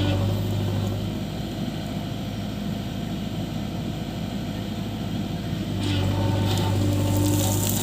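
Diesel engine of a JCB 3DX backhoe loader running steadily under work, its note easing a little through the middle and picking up again about six seconds in, with some rattling near the end.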